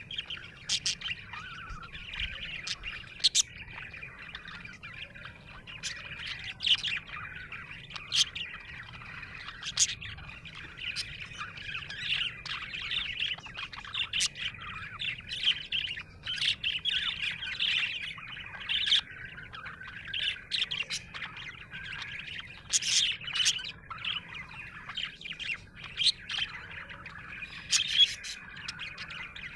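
Budgerigar chirping and warbling without a break, a steady chatter broken by many sharp, short high chirps.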